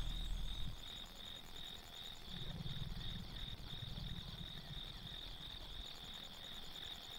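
Crickets chirping in a steady pulsing rhythm, about three chirps a second, over a fainter, faster high trill.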